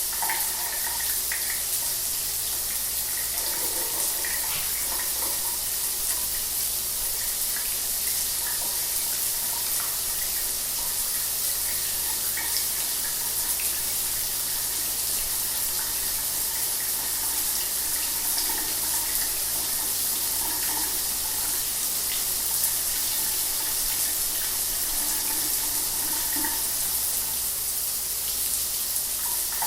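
Shower water running steadily, an even hiss of spray with small splashes.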